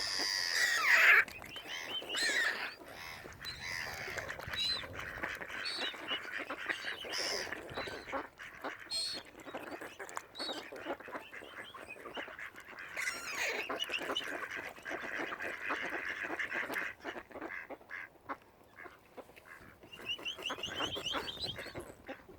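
A flock of waterfowl on a lake calling: many short overlapping calls from ducks and geese or swans, loudest about a second in.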